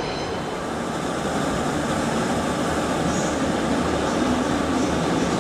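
Diesel multiple unit trains running through the station: a steady engine drone with wheel and rail rumble, a little louder from about a second and a half in.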